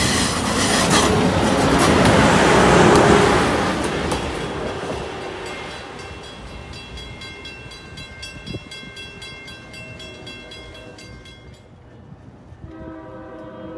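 Amtrak Acela Express trainset passing the grade crossing at speed, the rush and rumble of its cars loudest two to three seconds in, then fading as it pulls away. The grade crossing's bell keeps ringing rapidly, about four strikes a second, and stops just before the end, followed by a brief pitched tone.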